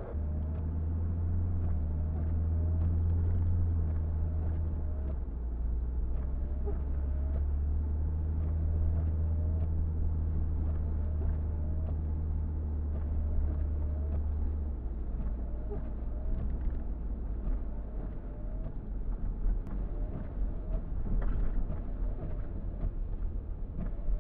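Car driving on a snowy road: a steady low engine and road rumble that eases about fifteen seconds in. A short, faint rise-and-fall squeak repeats about once a second.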